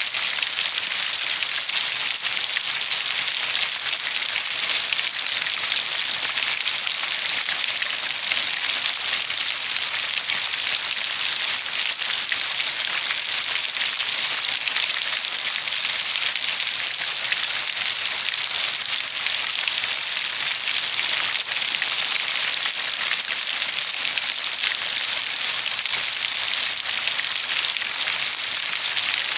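Steady, heavy rainfall pattering on a surface: an even hiss with fine crackle of drops, no thunder or change in intensity.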